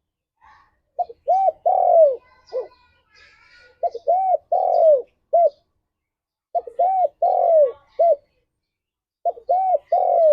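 Spotted dove (tekukur) singing its cooing song: short phrases of several rounded coos, one longer drawn-out coo in the middle of each, repeated about every two and a half seconds, with the last phrase starting near the end. Faint high chirps sound behind the first phrase.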